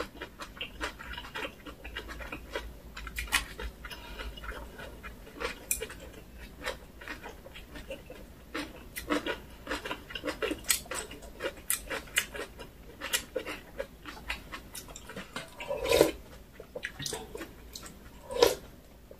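Close-miked eating sounds: wet chewing, lip smacks and small mouth clicks as aged-kimchi rice wraps are eaten, with an occasional light click of cutlery. A couple of slightly louder, lower mouth sounds come near the end.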